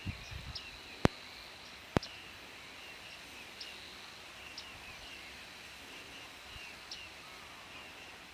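Small birds giving short, high calls every second or so over a faint steady high-pitched hum. Two sharp clicks about one and two seconds in are the loudest sounds.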